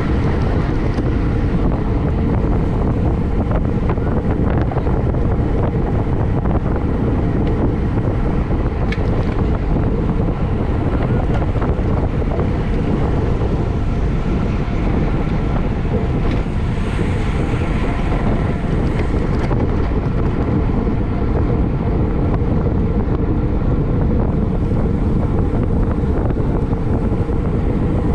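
Steady wind rumble buffeting the microphone of a camera riding along on a racing bicycle at speed.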